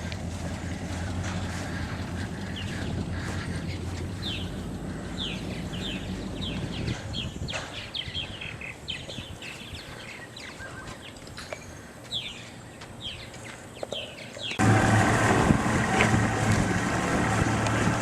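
A boat motor runs with a low steady hum that fades away over the first several seconds, while birds call with many short, high chirps. About fourteen and a half seconds in, the boat motor starts up loud and keeps running, with wind on the microphone.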